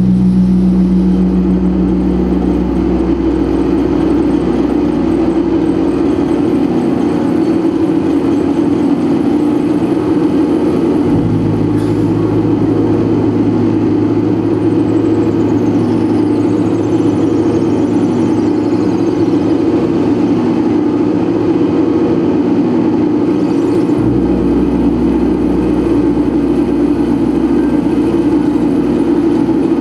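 Live experimental noise music: a loud, steady, droning wall of sound, its deep bass tones shifting about eleven seconds in and again near twenty-four seconds, with faint falling high whistles partway through.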